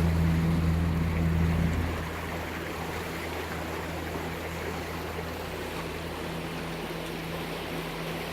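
Lagoon 42 catamaran's diesel engines running steadily under power, a low drone over a rush of water and wind. The drone is louder for the first two seconds, then eases off.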